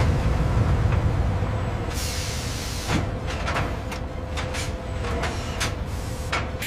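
Industrial machinery: a low rumble, then a hiss with a run of sharp metallic knocks and clanks starting about two seconds in, over a faint steady hum.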